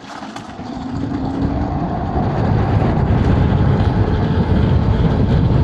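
Low road and wind rumble from riding an electric scooter, building over the first two seconds as it picks up speed and then holding steady, with a faint rising whine early on.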